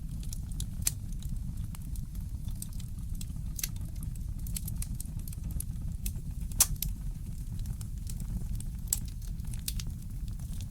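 Fireplace crackling: irregular sharp pops and snaps over a steady low rumble, with one louder pop about six and a half seconds in.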